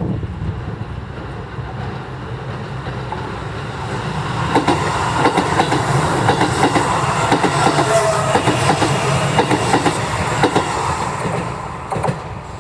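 Keisei 8800 series electric train running past, its wheels clicking over the rail joints. The clatter builds about four seconds in and eases off near the end.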